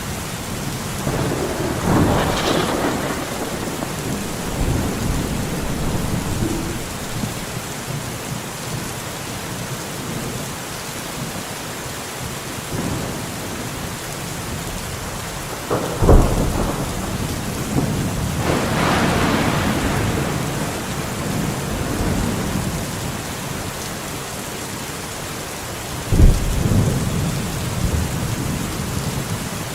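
Steady rain falling in a forest through a thunderstorm. Thunder rumbles build and fade a couple of seconds in and again around the middle, and sharp thunder cracks break out about halfway through and near the end.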